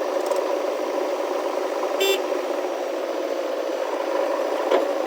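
Heavy diesel earth-moving machinery running steadily, with a short high-pitched beep about two seconds in and a brief knock near the end.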